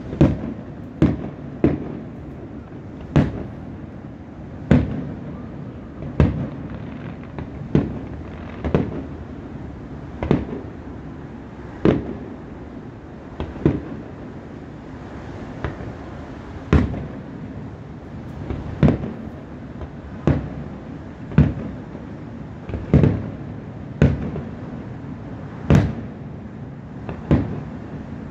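Aerial fireworks shells bursting, a sharp bang about every one to two seconds, each with a short rumbling tail, over steady background noise.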